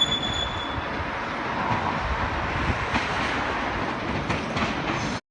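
Melbourne E-class tram running along street track: a steady rumble of wheels on rail, with a high steady tone that stops about half a second in and a few faint clicks near the end. The sound cuts off suddenly just before the end.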